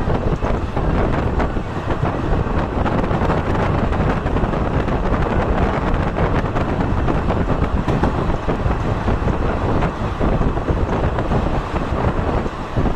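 Passenger train running along the track, a steady rumble with wind buffeting the microphone.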